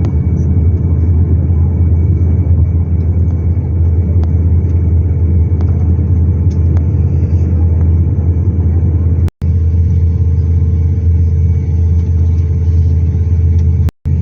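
Cabin noise inside an Airbus A350-900 airliner: a steady, loud low rumble with a faint constant hum over it. The sound cuts out completely for an instant twice, about nine seconds in and at the very end.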